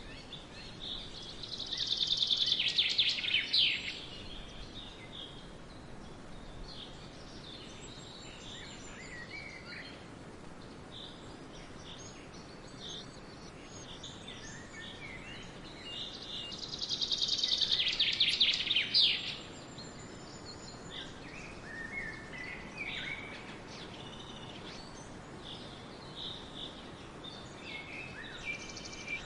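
Woodland songbirds: a loud, fast trilled song lasting about two and a half seconds, sung twice about fifteen seconds apart, with quieter chirps from other birds in between over a steady background hiss.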